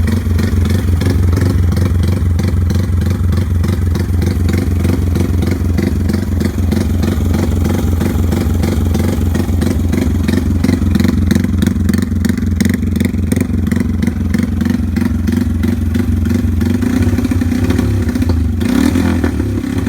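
Honda MSX125's single-cylinder four-stroke engine running steadily under way, with a change in the engine note near the end.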